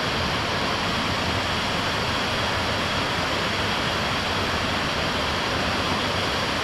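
A waterfall pouring and splashing with a steady, even rush of water.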